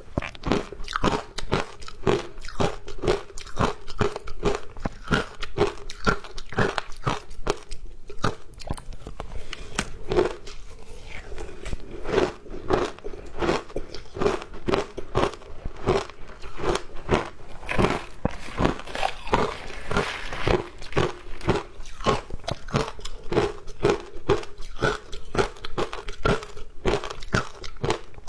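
Ice being bitten and crunched between the teeth, close up, in a steady run of crisp crunches at about three a second.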